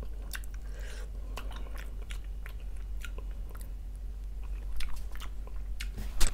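A person chewing and smacking on boiled fish-head meat picked off the bones: a run of short wet clicks and smacks, a little louder about five seconds in and again near the end.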